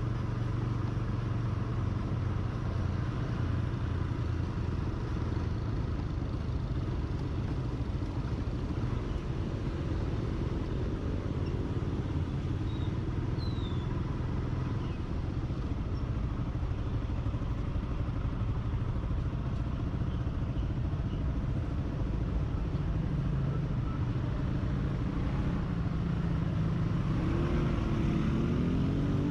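Motorcycle on a ride in traffic: the engine runs steadily under road and wind noise. Near the end an engine note rises as it speeds up.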